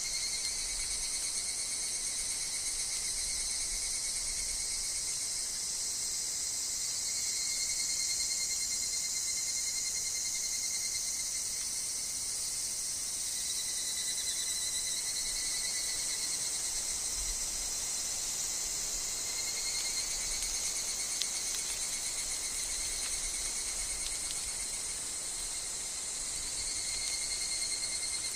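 Dense, steady chorus of singing insects, with the evening cicadas (higurashi) among them: a high shimmering buzz over unbroken trilling tones, running without a break.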